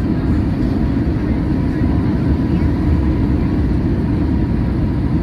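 Steady, loud low rumble inside a Boeing 737-800 cabin: its jet engines and airflow, heard through the fuselage.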